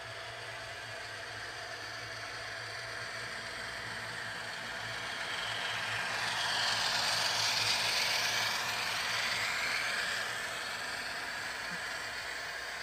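A train passing, its rolling noise swelling to a peak about seven or eight seconds in and then fading, over a steady low hum.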